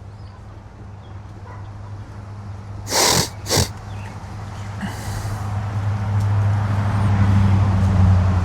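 A motor vehicle's low engine hum grows louder toward the end. About three seconds in come two short, sharp hissing blasts about half a second apart.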